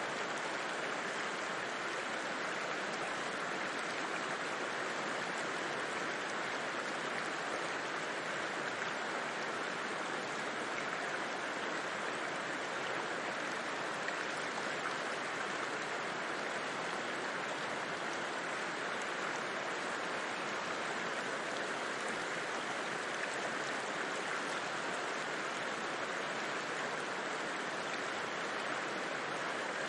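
A river rushing and burbling over rocks in a steady, unbroken flow.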